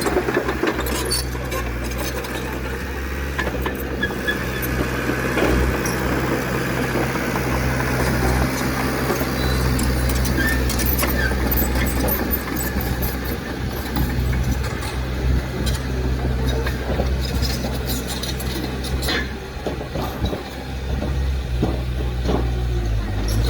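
Heavy earthmoving machine's engine running steadily under load, with scattered sharp clicks and knocks over it.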